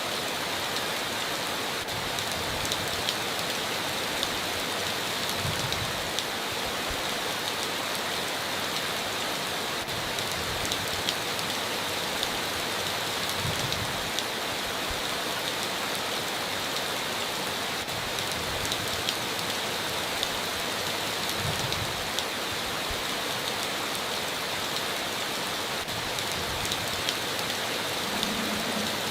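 Heavy rain falling steadily on a tin roof, with many separate drop hits ticking through a constant hiss. There is no thunder.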